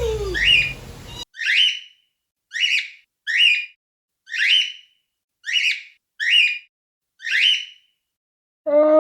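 An animal giving a series of about nine short, high, rising whistle-like calls, roughly one a second, separated by silence.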